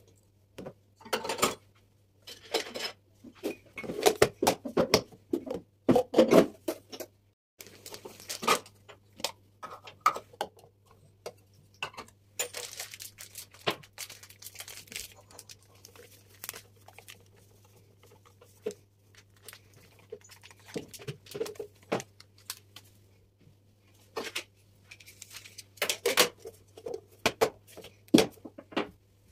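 Kitchen items being handled in a pantry cupboard: containers and jars tapped and set down, with packaging rustling, in irregular bursts of clicks and knocks.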